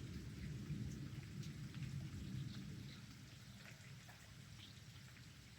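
Low rumble of thunder dying away over a few seconds, under falling rain with scattered drops ticking.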